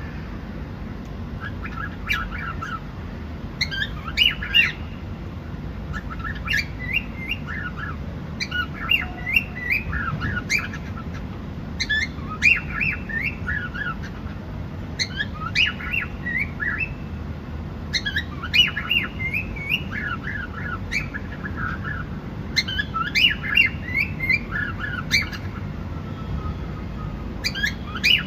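Cockatiel chirping and whistling in short bursts of quick, high notes, repeated every second or two over a steady low background hum.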